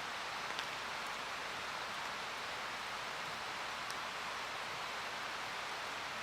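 Steady rushing of a mountain stream, with a couple of faint ticks.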